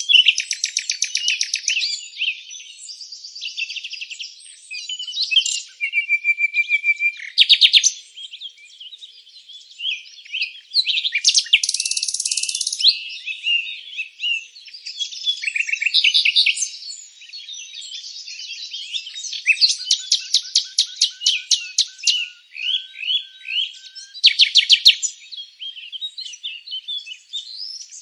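Several songbirds chirping and trilling at once, a dense chorus of rapid repeated notes and short high calls with no gaps.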